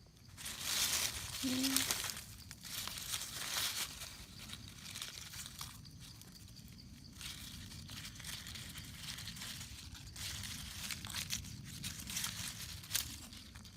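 Dry leaf litter and undergrowth rustling and crackling in irregular bursts, loudest in the first few seconds.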